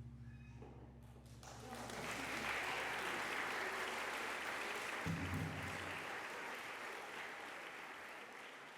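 The low, steady ringing of the gamelan's last notes dies away, then audience applause rises about two seconds in and slowly fades.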